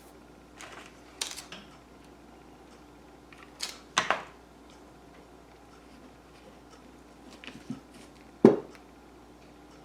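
Scattered clicks and knocks of small craft pieces and tools being handled at a work table, with a couple of sharper clicks about four seconds in and the loudest, duller knock near the end.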